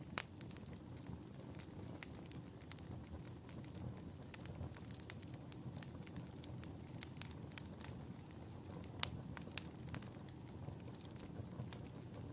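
Wood fire in a fireplace crackling: irregular sharp pops and snaps over a steady low rumble of the flames, with a louder pop just after the start and another about nine seconds in.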